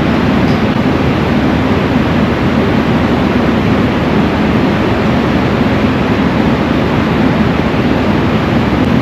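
A vehicle running: a loud, steady engine drone under an even rushing noise, with no change in pitch or level.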